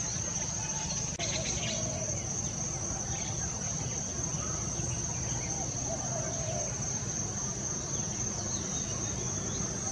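African grey parrot making soft, scattered chirps and mumbled chatter, with a short run of clicks about a second in. Under it runs a steady high-pitched drone and a low hum.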